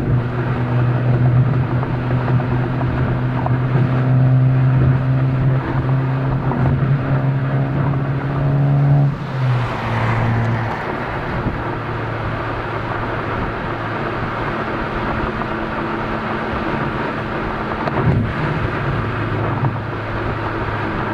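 Honda Civic Type R FK8's turbocharged 2.0-litre four-cylinder heard through its exhaust (catted downpipe, stock catback), recorded at the tailpipe. The engine note climbs slowly under steady throttle for about nine seconds, drops suddenly in pitch as the driver shifts or lifts off, then settles into a steady lower drone while cruising.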